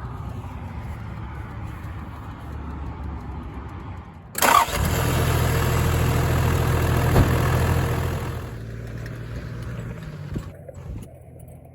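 Toyota Land Cruiser 80's diesel engine running. It gets suddenly louder about four seconds in, then eases off and fades near the end.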